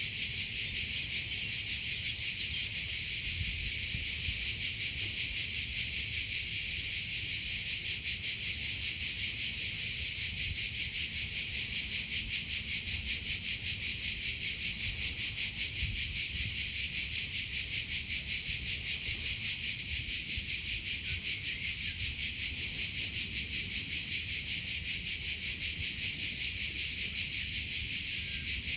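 Cricket chirping steadily in an even, rapid high-pitched pulse that never breaks.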